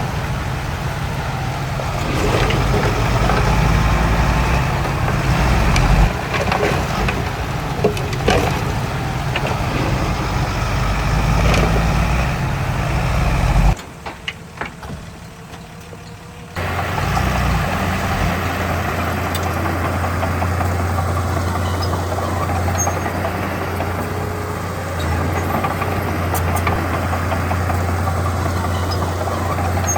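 Heavy diesel construction machinery running: the engines of a dump truck and a bulldozer working soil, with a few sharp clanks. About halfway through, the sound drops abruptly to a quieter stretch for about three seconds, then a steady low engine drone takes over.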